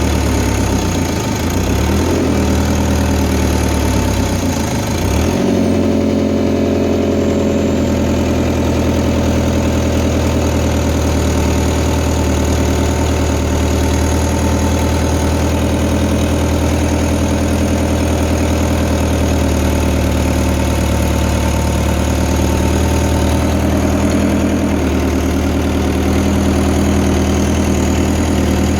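Diesel engine of a Fiat Hitachi FH150 excavator running. Its speed dips briefly twice in the first five seconds and recovers, as if under a sudden load, then runs steadily.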